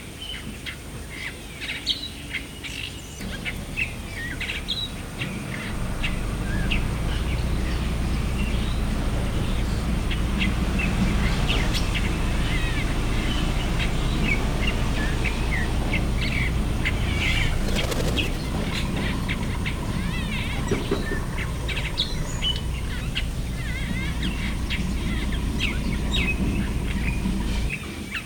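Wild birds chirping and calling in short bursts throughout, over a steady low rumble that strengthens about a fifth of the way in and cuts off suddenly near the end.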